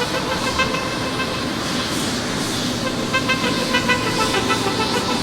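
Boeing 777 jet engines running: a steady, loud roar with faint shifting whining tones over it.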